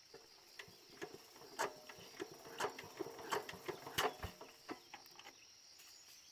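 Small farm engine being cranked by hand without firing, giving irregular mechanical clanks and knocks for about five seconds, then stopping. The engine turns over very heavily, which they take as a sign of damage inside the engine. Crickets chirp in a steady high tone behind it.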